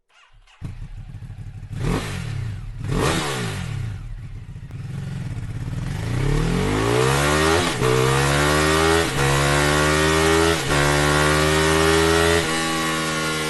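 Sport motorcycle with an aftermarket Akrapovic exhaust: two short throttle blips, then hard acceleration with the engine note climbing and dropping sharply at each of about four upshifts, before it settles to a steadier note near the end.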